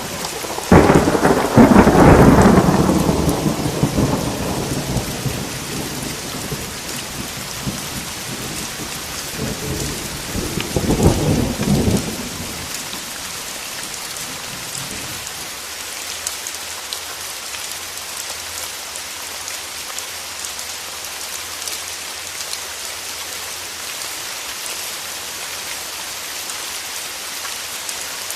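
Steady rain falling on a surface, with a loud crack of thunder about a second in that rolls away over several seconds. A second, shorter thunder rumble follows around the middle. Then only the rain goes on.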